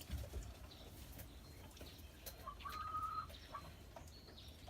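A faint bird call: one drawn-out note lasting under a second near the middle, with a few soft knocks and rustling around it.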